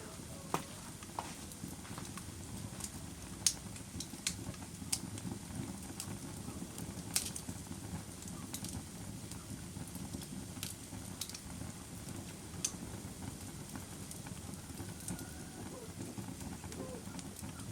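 Campfire burning: a steady low rumble of flames with sharp crackles and pops of burning wood scattered irregularly, the loudest pops about three and a half and seven seconds in.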